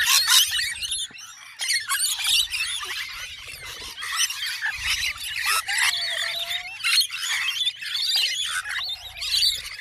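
Many small birds chirping and squawking at once: a dense chorus of short, high, overlapping calls.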